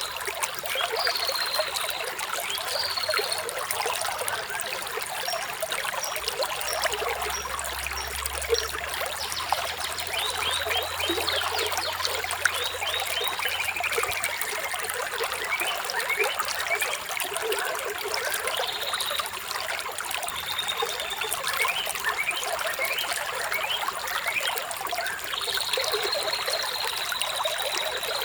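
Water trickling and splashing steadily over stones, with birds chirping now and then above it in short high calls.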